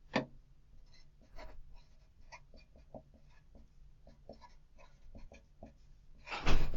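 Handwriting: a string of small scratches and taps of a pen tip writing on a worksheet, with a sharp tap just after the start and a louder thump near the end.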